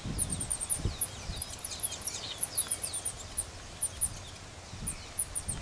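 Small birds chirping and singing: quick series of very high, short chirps, with thin whistles sliding down in pitch, over a steady outdoor hiss.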